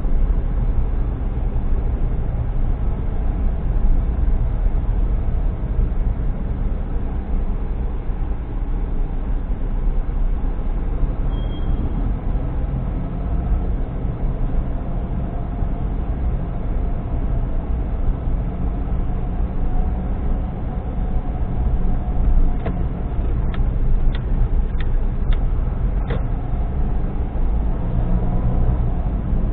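Steady low rumble of a car being driven, engine and road noise heard from inside the vehicle. About three quarters of the way through there is a brief run of half a dozen sharp clicks.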